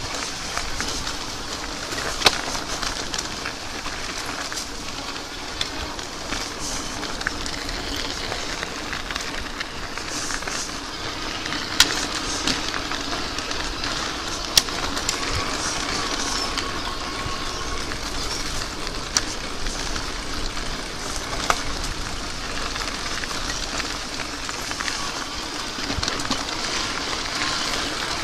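Electric bike riding along: steady rolling noise of 20-inch Michelin Mambo BMX tyres on the path mixed with wind on the microphone, with a few sharp clicks and knocks from the bike going over bumps.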